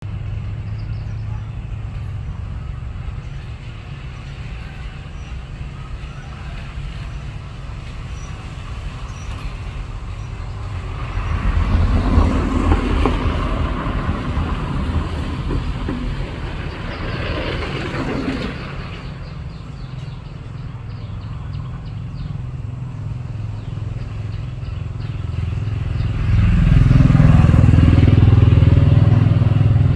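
Motor engine running with a steady low hum. It swells louder for several seconds near the middle, then again near the end.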